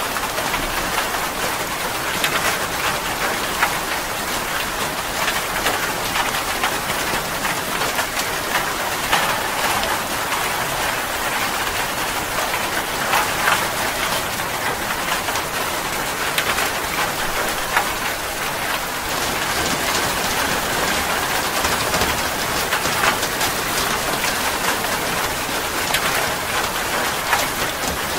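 Steady rain falling, with many small individual drop hits through a constant rushing hiss.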